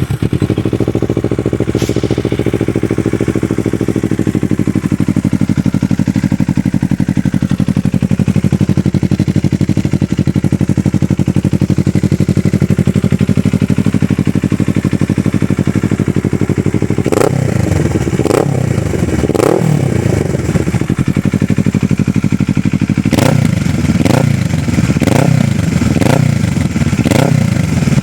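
Kawasaki ER-6n parallel-twin engine through a Racing Line full aftermarket exhaust system, idling steadily after a fresh start. About two-thirds of the way in it is revved in a quick series of throttle blips, then settles back to idle before another burst of about five blips near the end.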